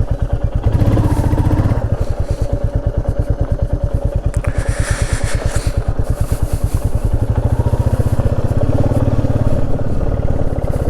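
Motorcycle engine running with a steady, rapid firing beat, picking up briefly about a second in and again from about seven seconds, with a short hiss of noise midway.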